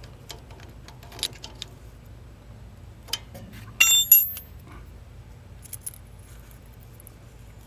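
Scattered metallic clicks and clinks of hand tools (wrench and feeler gauge) working the valve adjusters on a small mower engine as the adjuster is tightened, with two sharp ringing clinks about four seconds in.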